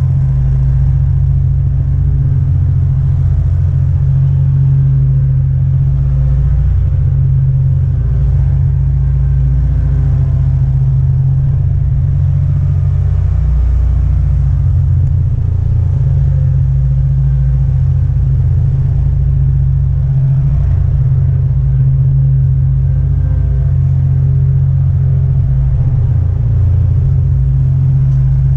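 20 hp Kohler Command engine of a Grasshopper mower running steadily, a strong, even low hum.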